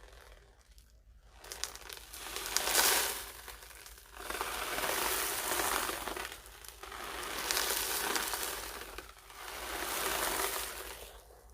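Grains or beads rolling inside a homemade ocean drum as it is tilted back and forth, making four slow swells of rushing sound like surf washing in and out.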